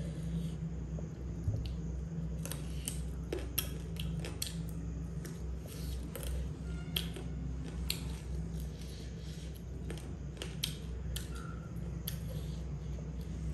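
Close-up chewing and biting of fried chicken, with scattered sharp crunches and mouth clicks, over a steady low hum.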